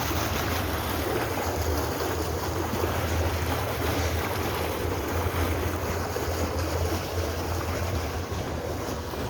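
Wind buffeting the microphone: a steady low rumble under an even rushing hiss.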